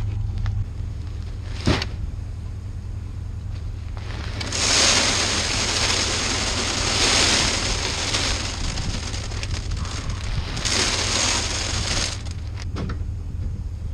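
Pickup plow truck running with a steady low hum, with three long bursts of hissing about four and a half, seven and ten and a half seconds in.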